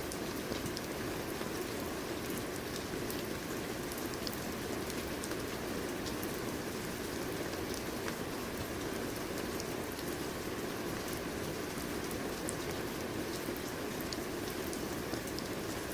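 Steady rain falling, an even wash of rain on a surface with scattered sharp drop ticks.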